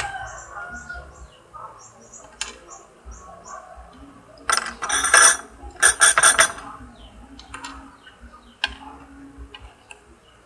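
Liquid glue squeezed from a plastic bottle into a container, with two loud spluttering bursts about halfway through and a few clicks of the bottle against the container. Small birds chirp in the background.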